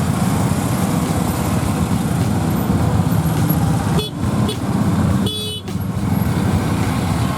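Auto-rickshaw (tuk-tuk) engine and road noise while riding through city traffic, with short vehicle-horn toots about four seconds in and again around five and a half seconds in.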